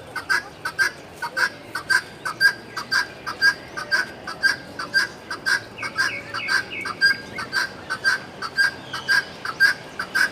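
Aviary birds chirping: a steady run of short, sharp calls, about three a second, with fainter calls from other birds behind them.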